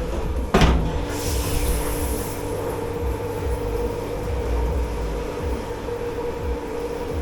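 Steady mechanical hum and rumble of dish-pit machinery, with one sharp clank about half a second in, followed by a brief hiss lasting about a second and a half.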